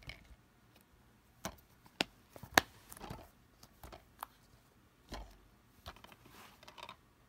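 Plastic DVD cases being handled: a string of sharp clicks and taps with softer rustling between them, the loudest click about two and a half seconds in.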